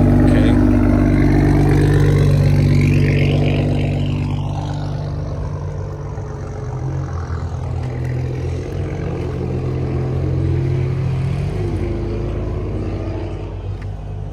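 A car engine running close by, with a steady low note that is loudest for the first few seconds. It then grows quieter and its pitch wanders.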